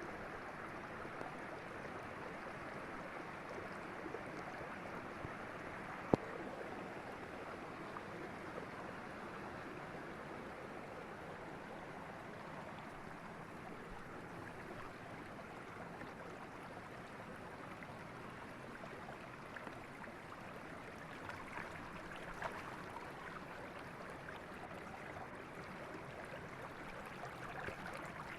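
River water flowing steadily, a continuous rush of water, with one sharp click about six seconds in.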